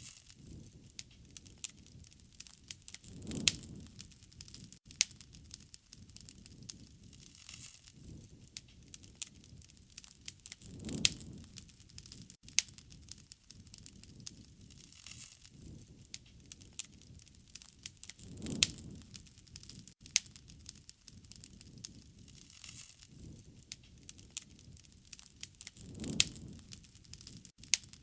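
Wood fire crackling, with frequent sharp pops and snaps. A low rumble swells and fades about every seven and a half seconds.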